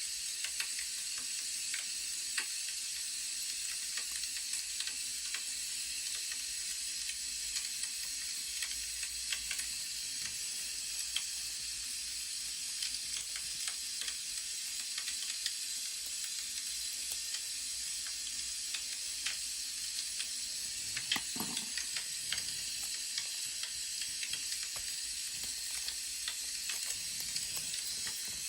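Burning firewood crackling: a steady hiss with irregular small pops and snaps. A brief scrape a little over two-thirds of the way through.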